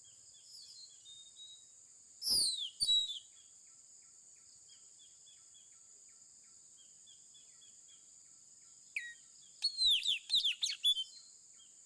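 A bird giving shrill, high-pitched calls, each note sliding downward: a short burst about two seconds in and a quicker series of several notes near the end, over a steady high background hum.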